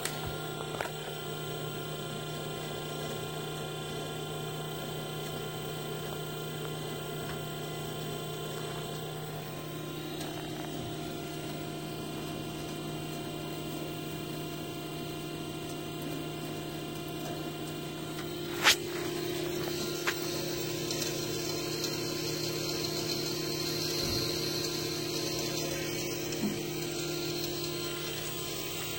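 Steady mechanical hum with several held tones, and one sharp click about two-thirds of the way through.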